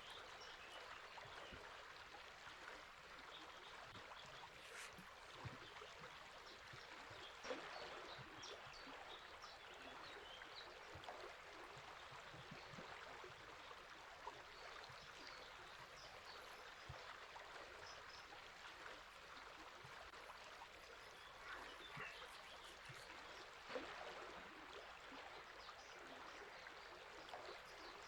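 Faint, steady rush of a flowing river, with birds chirping briefly now and then above it and a few sharp clicks, the loudest about a third of the way in and again near the end.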